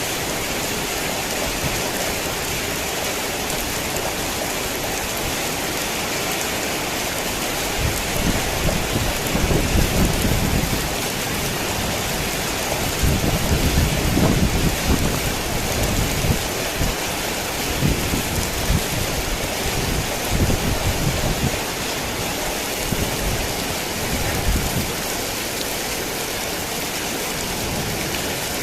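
Heavy rain falling steadily, with low rumbles of thunder swelling about a third of the way in and again through the middle.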